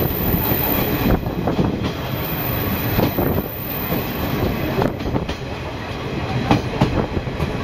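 Open torokko trolley train running along the track: a steady rumble of wheels on rails with irregular clacks over the rail joints.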